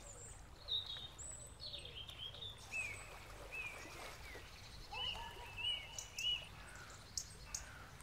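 Faint birdsong: a string of short whistled chirps, many falling in pitch, coming a few a second, with thin higher notes mixed in.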